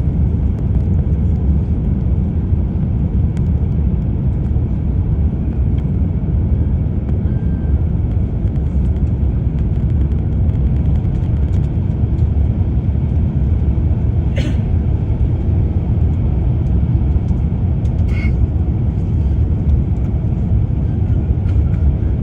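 Steady low rumble of airliner cabin noise in flight: jet engines and rushing air heard from inside the passenger cabin. Two brief faint higher sounds come through about two-thirds of the way in.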